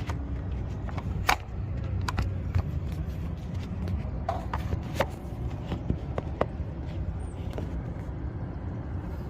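Low steady rumble of road traffic, with scattered sharp clicks and knocks as a heater hose and barbed plastic connector are handled and fitted.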